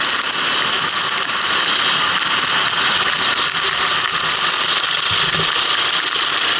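Steady rushing hiss of a racing kart at speed on a wet track, picked up by an onboard action camera: wind and water spray drown out any clear engine note.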